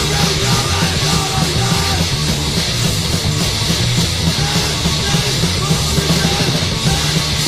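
Hardcore punk recording from the mid-1980s: a band playing electric guitar, bass and drums as a dense, unbroken wall of loud sound.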